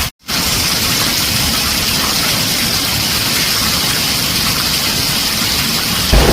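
Heavy rain on a tin roof, a steady dense hiss that cuts out completely for a moment just after the start. Near the end a deep thunder rumble sets in and the sound gets louder.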